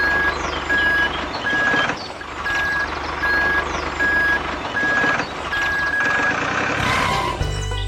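Reversing alarm beeping in a steady, even rhythm of about one beep every 0.7 seconds over background mechanical noise. The beeping stops about six seconds in, and music comes in near the end.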